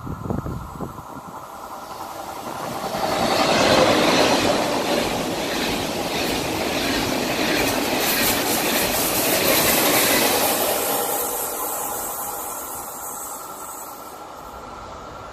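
Double-deck TGV high-speed electric train passing through a station without stopping. The rushing noise of its wheels on the rails swells over a couple of seconds, holds for several seconds as the carriages go by, then fades as it draws away.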